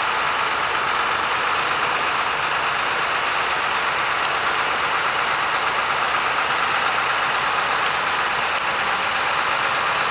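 Tractor engine running steadily, with no change in speed or load.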